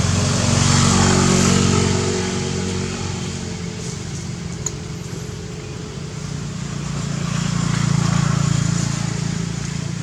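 Motor vehicle engines passing by, swelling louder about a second in and again near the end.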